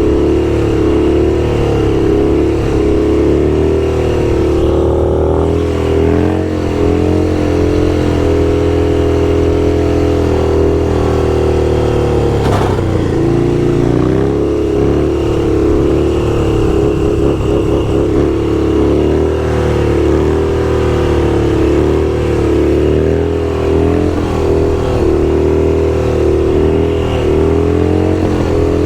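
Motorcycle engine running steadily under way, its pitch rising and falling slightly with the throttle; about twelve seconds in the pitch drops sharply and climbs back.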